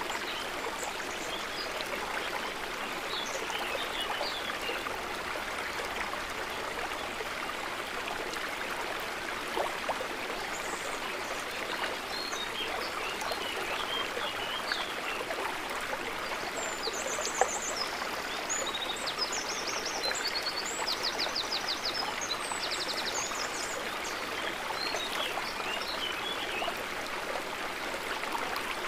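Steady, gently babbling water of a calm lake shore, with scattered short high chirping calls throughout and a run of buzzy, rapidly pulsed calls about two-thirds of the way in.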